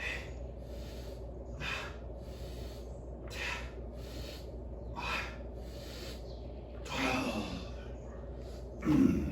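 A man breathing hard from exertion, with short forceful breaths about every second and a half to two seconds. Then comes a longer, louder voiced exhale, and near the end a short, loud grunt-like breath.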